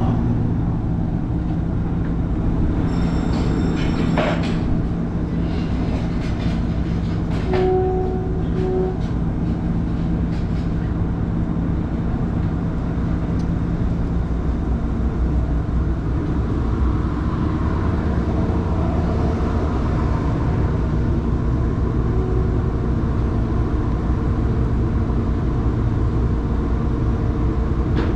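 Steady low engine drone, with a few short clicks and a brief tone about eight seconds in.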